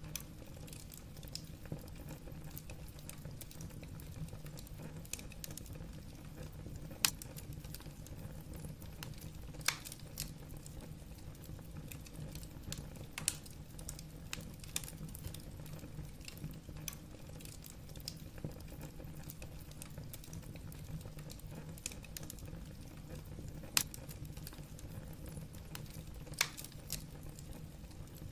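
Wood fire burning in a fireplace: logs crackling with a low steady rumble, many small ticks and about five louder sharp pops.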